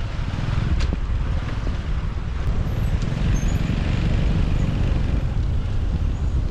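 On-board sound of a motorbike ride through city traffic: a steady low wind rumble on the microphone over vehicle and traffic noise.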